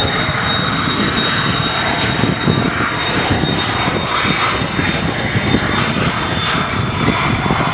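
Cessna Citation 560XL business jet's twin turbofan engines at takeoff power, a loud steady rushing noise as the jet departs.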